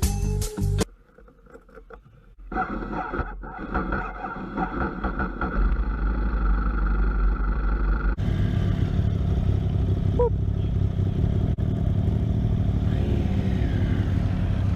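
Music cuts off about a second in; after a short lull a motorcycle engine is heard running, and from about eight seconds in the sound changes suddenly to a steady riding sound of engine and wind noise.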